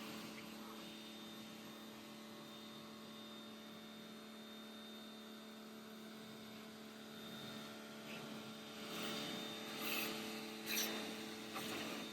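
Pressure washer running with a steady hum, with a few louder bursts of spray noise in the last few seconds.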